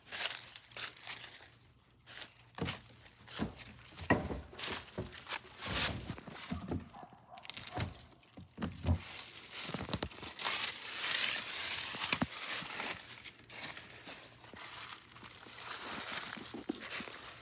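Footsteps with scattered knocks and rustling, as things are handled and moved about.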